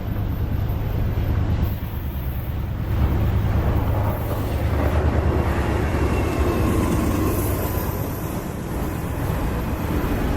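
Freight train rolling past with a steady, loud low rumble of locomotives and cars.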